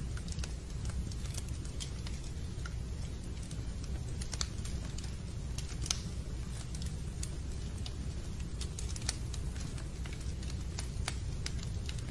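Fireplace fire burning: a steady low rumble with irregular sharp pops and crackles.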